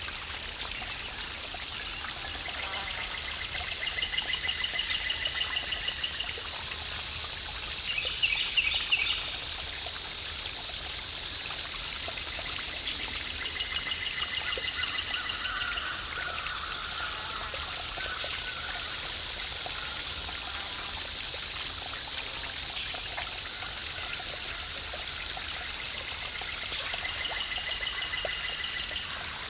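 Waterfall rushing steadily with songbirds calling over it: short trilled calls repeated several times, and a brief louder burst of chirps about eight seconds in. A steady high-pitched tone sits under it all.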